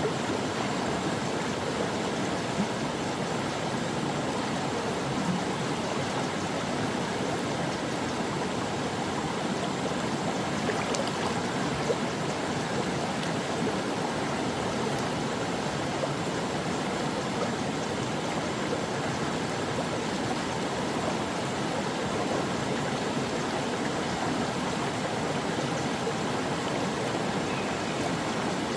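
Stream water flowing in a steady, even rush with a light babble.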